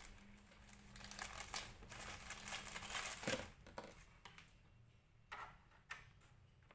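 Plastic parts of a Sylvanian Families tree house toy set being handled and fitted together: a stretch of rustling and clicking, then a few separate sharp clicks.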